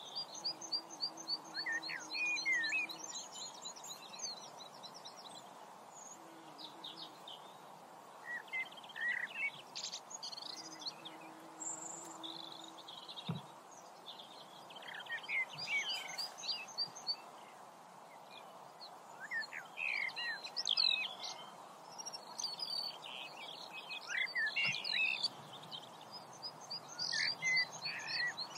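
Several songbirds singing together, a mix of quick repeated trills and short chirps, over a steady background hiss.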